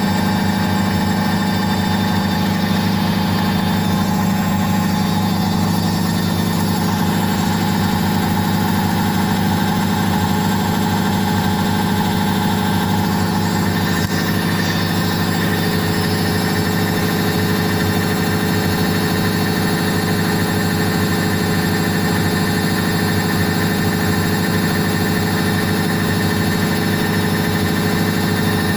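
Indesit IWSC5085 washing machine spinning at a steady high speed: a continuous even hum from the motor and drum, with no pauses or changes in pitch.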